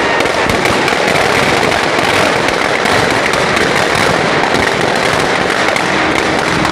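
Dense, continuous crackling of many firecrackers going off at once, loud and unbroken throughout.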